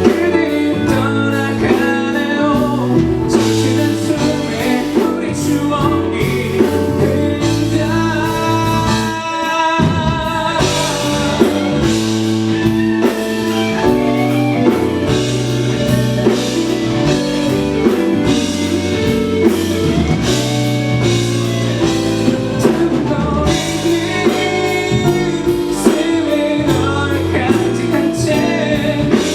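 A male singer singing a song live with band accompaniment, steady and continuous.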